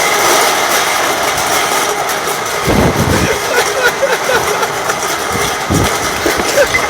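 Forklift truck engine running steadily under a loud, constant background noise, with a surge in the low end about three seconds in and again near six seconds.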